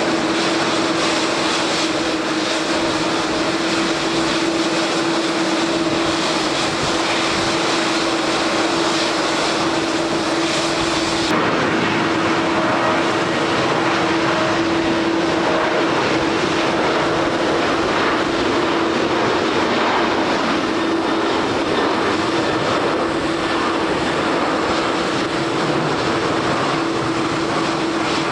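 Airliner engines running with one steady hum-like tone over a dense, even hiss. The top of the sound changes abruptly about eleven seconds in.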